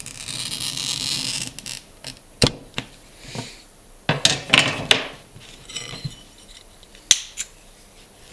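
Glass cutter scoring a sheet of clear glass, a scratchy hiss for about a second and a half. Then comes a scatter of sharp clicks and clinks as the scored glass is broken off to make a new piece.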